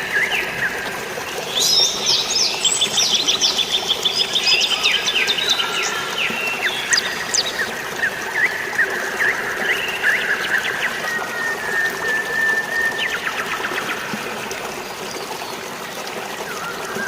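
Several birds chirping and trilling, with one long even whistle partway through, over a steady rush of running water. The calls are busiest in the first half and thin out later.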